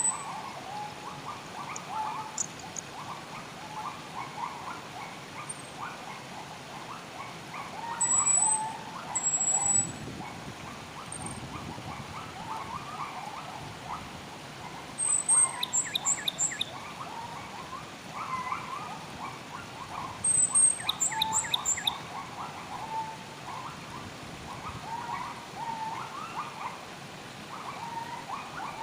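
Several wild birds singing together: a busy chatter of short chirps, with thin high whistles now and then and two short rapid trills, about half and three-quarters of the way through.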